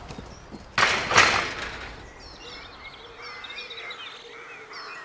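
A brief loud rush of noise about a second in, then birds chirping and calling.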